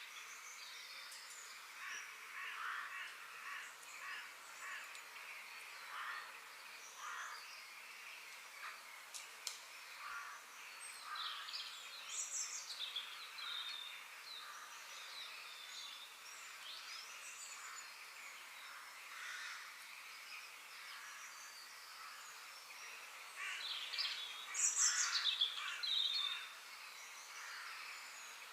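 Several birds chirping and calling, short repeated calls over a faint outdoor hiss, with a louder flurry of calls near the end.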